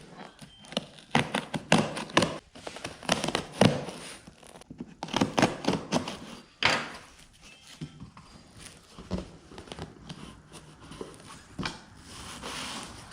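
Cardboard box and packing material being opened and handled: an irregular run of thuds, knocks, scrapes and crackling rustles.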